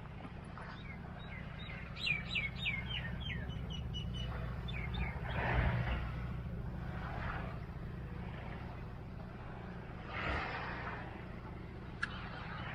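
A small bird chirps a quick run of short falling notes about two seconds in, over a steady low rumble with a few swells of rushing noise.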